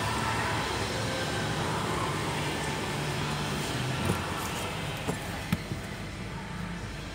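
2006 Holden Commodore's 3.6-litre LY7 V6 idling steadily. There is a knock about four seconds in and a few light clicks after, and the engine sounds quieter in the second half.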